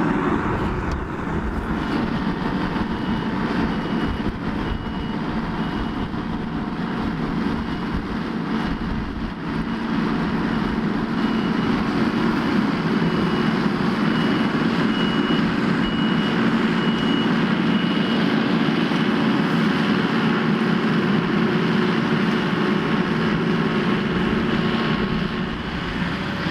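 Diesel engine of a Gehl skid steer loader running steadily under load while it grades stone with a blade, getting a little louder about a third of the way in. A repeated high-pitched beep sounds over it and stops about two-thirds of the way through.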